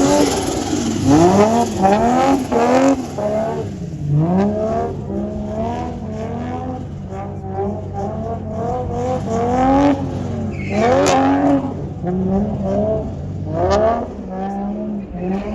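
Car engine being revved hard and let off again and again while drifting, its pitch sweeping up and down about once a second over a steadier low engine hum, with a brief rush of tyre noise about eleven seconds in.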